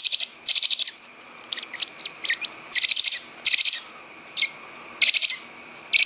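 A baby bird, thought by its keepers to be a young robin, begging for food: loud, harsh, rapidly pulsed high chirps in short bursts, repeated about every second, with a few short thin peeps between them in the first half.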